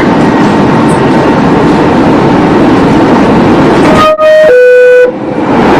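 Loud, steady rumble of a subway train running, then about four seconds in a two-note falling chime, the subway car's door-closing signal.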